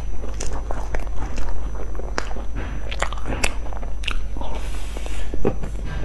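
Close-miked biting and chewing of a crumb-topped, cream-filled pastry: a run of short, sharp crunches and mouth clicks.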